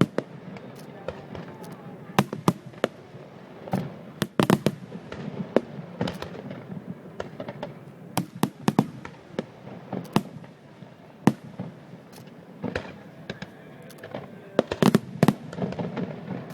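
Fireworks going off in sharp bangs at irregular intervals, some coming in quick clusters, over a steady background noise.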